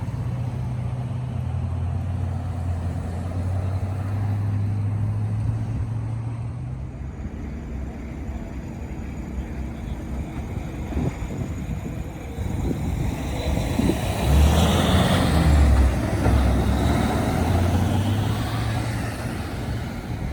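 Road vehicle engines running with a low, steady drone, and a louder vehicle passing close about two-thirds of the way through.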